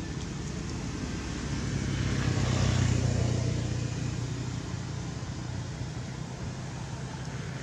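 A motor vehicle passing by: engine hum and road noise build to a peak about three seconds in, then fade away.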